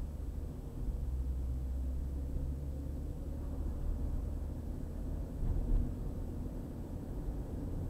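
Steady low road and engine rumble of a car driving on a highway, heard from inside the car, with a brief swell about two thirds of the way through.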